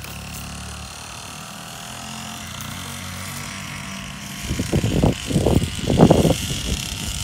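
Syxmoto Holeshot 50cc two-stroke kids' dirt bike engine running steadily as it is ridden. From about four and a half seconds in, a series of loud, uneven low bursts comes in over it, roughly two a second.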